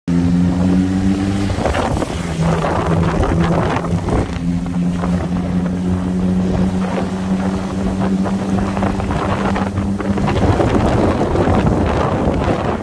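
Suzuki 600 cc inline-four motorcycle engine running at a steady pitch while riding, with wind rushing past the microphone. A bit after ten seconds the steady engine note breaks up into rougher, noisier sound.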